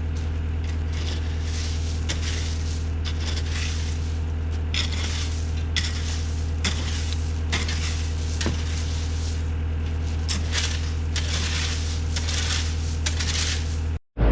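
Excavator engine running steadily while its bucket scrapes and clatters through stone and gravel, with many short crunching knocks.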